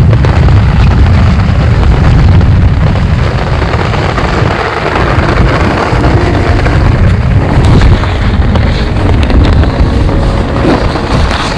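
Storm wind gusting hard across the microphone, a loud steady low rumble, with heavy rain hissing through it.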